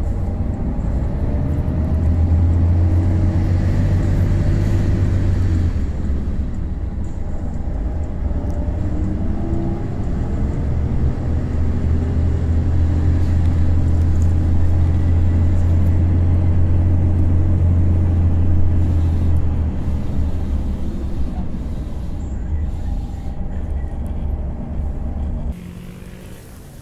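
Steady engine drone and low road rumble of a vehicle driving, heard from inside it. It drops off abruptly to quieter street sound near the end.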